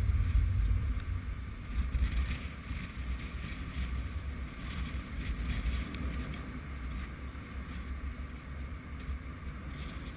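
Wind buffeting the microphone: a low, gusting rumble that eases over the first few seconds, then carries on steadily.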